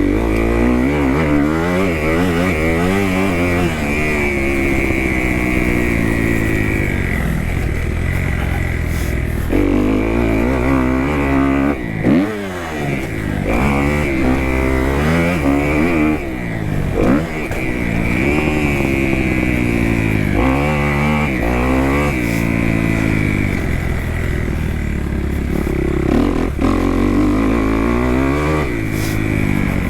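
2018 Kawasaki KX250F's single-cylinder four-stroke engine revving up and down under riding. It climbs in pitch again and again through the gears, with a brief drop in level around twelve seconds in.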